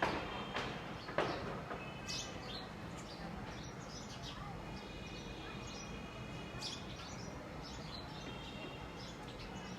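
Small birds chirping and twittering with repeated short high calls and a few brief trills. There are two sharp bumps near the start and a little over a second in.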